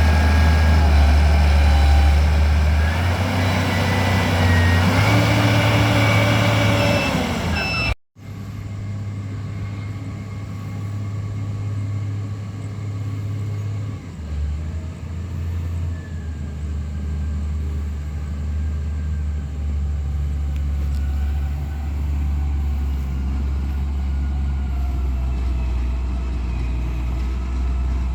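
Heavy diesel vehicle engines running, a deep steady drone whose pitch steps up and down as the revs change. The sound cuts out for an instant about eight seconds in, then a similar engine drone carries on.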